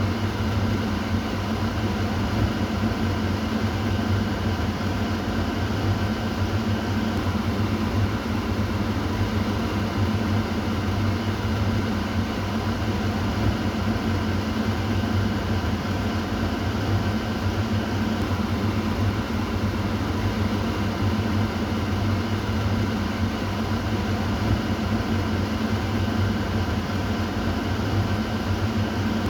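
Kitchen exhaust fan running steadily: a continuous whoosh of moving air over a low motor hum.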